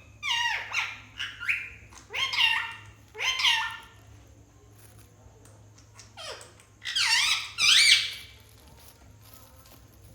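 Pet parrot calling: a run of short, high calls that swoop up and down in pitch, a pause midway, then a louder pair of calls near the end.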